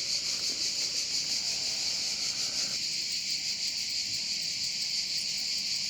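A steady, high-pitched chorus of singing insects: a dense, unbroken buzz.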